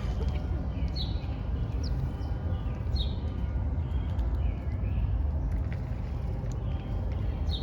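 Small birds chirping in short, sharp high notes, one every second or two, some sweeping down in pitch, over a steady low background rumble.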